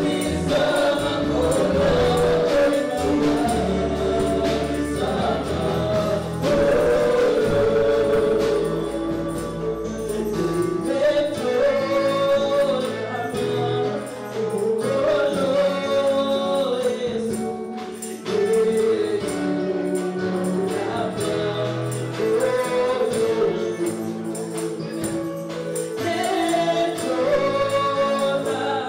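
Congolese gospel praise music: a choir singing with a tambourine-like rhythmic shimmer.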